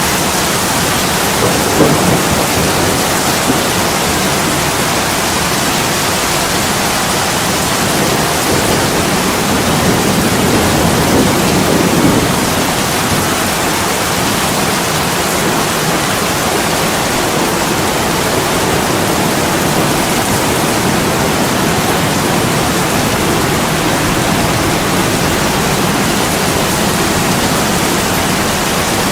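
Heavy rain pouring steadily on a window pane, an even rushing hiss, with a couple of brief low swells, one about a second in and one near the middle.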